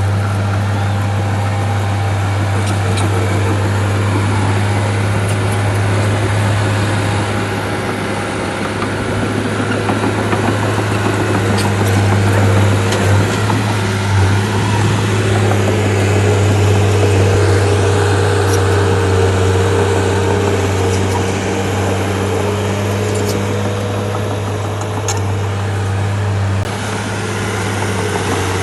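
Bulldozer's diesel engine running steadily, with a few faint clicks over it.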